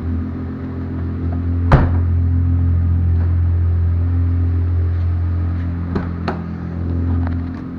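Car engine idling steadily, with one sharp knock about two seconds in and two lighter clicks about six seconds in.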